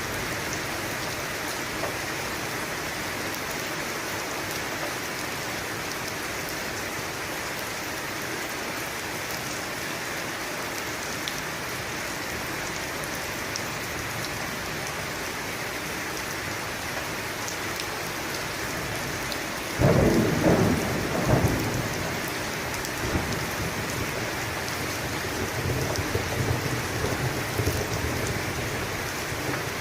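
Steady rain with a sudden crack of thunder about two-thirds of the way through, a second crack a second and a half later, then rolling thunder rumbling on toward the end.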